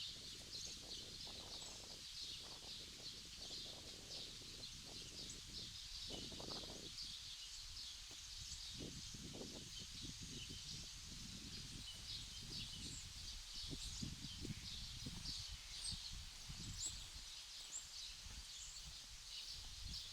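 Faint outdoor ambience of birds chirping continuously in many short high calls, over a soft irregular low rumble.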